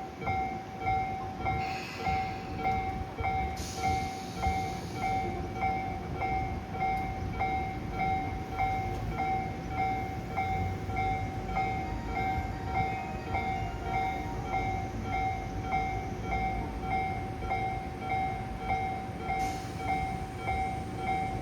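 Railway level-crossing alarm ringing an electronic tone about once a second, over the low rumble of trains.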